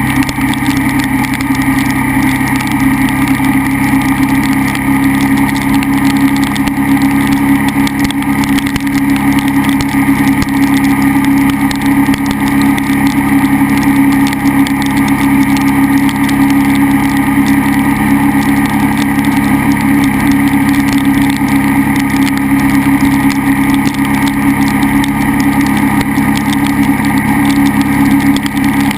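KTM 990 SMR's V-twin engine running at a steady, unchanging speed while the bike is ridden, over a steady rush of noise.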